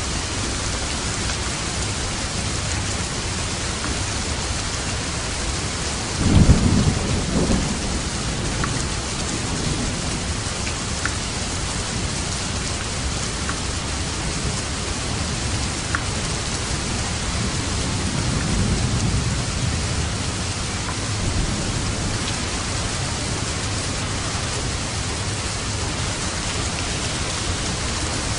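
Steady rain falling, with a thunderclap about six seconds in that rumbles for a couple of seconds. A softer roll of thunder follows about two-thirds of the way through.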